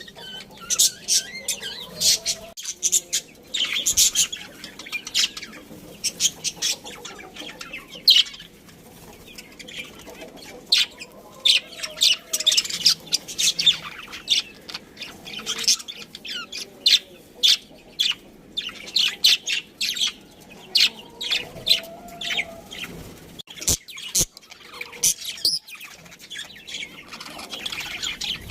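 Budgerigars chirping and chattering: a busy run of many short, high chirps following one another closely.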